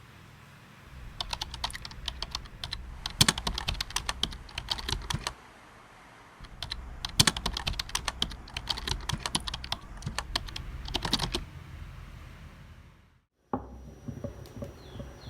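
Typing on a computer keyboard: quick, irregular key clicks in two runs of about four and five seconds with a short pause between, over a low steady background noise.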